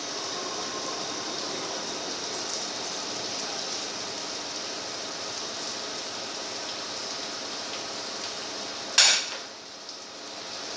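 CNC lathe running, a steady hissing noise with faint machine tones under it. About nine seconds in there is one loud, sharp bang, after which the noise drops.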